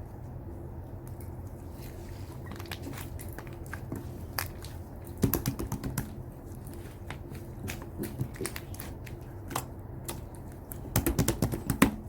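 Slime being worked by hand, giving off bursts of sharp clicking and popping: a dense run about five seconds in, scattered clicks after, and another dense run near the end. A steady low hum runs underneath.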